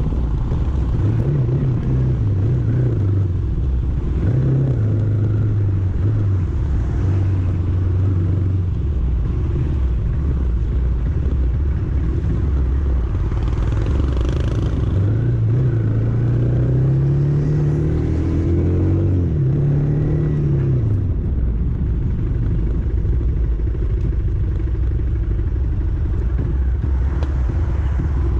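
Motor vehicle engine running on the move, its pitch rising and falling with changes in speed, over a steady road rumble.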